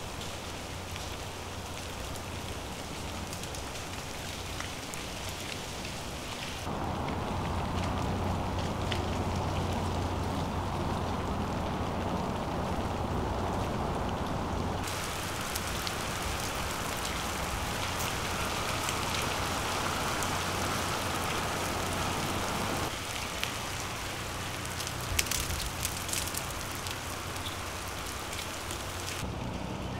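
Freezing rain falling, a steady pattering hiss whose tone shifts abruptly three or four times, with a few sharp ticks of drops about 25 seconds in.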